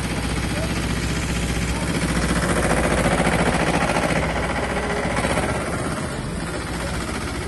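A vehicle engine running steadily with a fast regular pulse, growing a little louder for a few seconds in the middle and then easing off.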